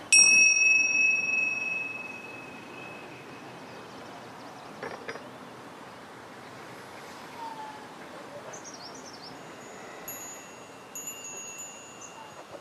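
A metal chime struck once, ringing at a few clear high tones that fade away over about two seconds. After it comes low, even background, with faint high chirps and a soft ringing tone again near the end.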